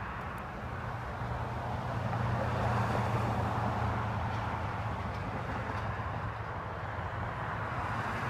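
Road traffic: a steady rush of tyre and engine noise over a low hum, swelling about three seconds in as a vehicle passes, then easing.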